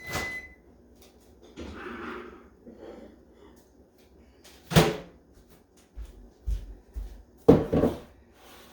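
A microwave oven's end-of-cycle beep right at the start, then a few sharp clunks and knocks, the loudest about halfway and near the end, as the microwave door is opened and the hot bowl of brittle mixture is handled.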